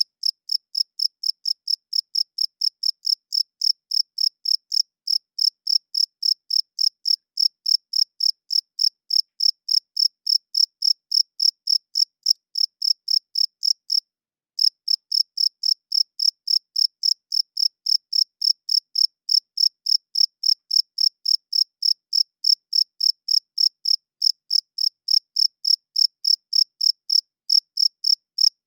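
Cricket chirping: a high, even chirp repeated about three times a second, with a brief break about halfway through.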